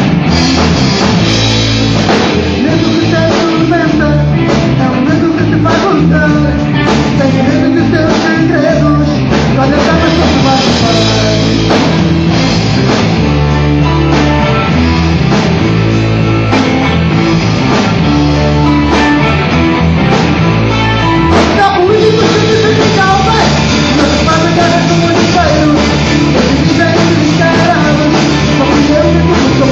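A rock band playing loudly, with drum kit, guitar and bass, and a voice singing over it.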